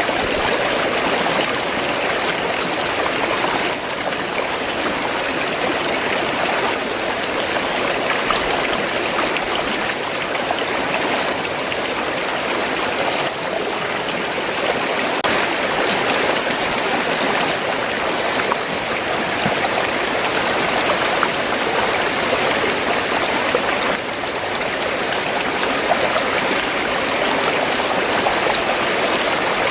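Fast-flowing stream of water, gurgling and rushing steadily.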